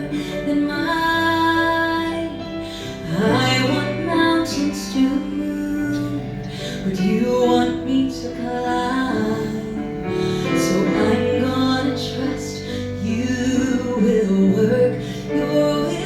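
Music: a woman singing long held notes over instrumental accompaniment.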